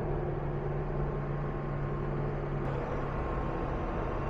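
Mercedes W204 C-Class engine idling with a steady low hum.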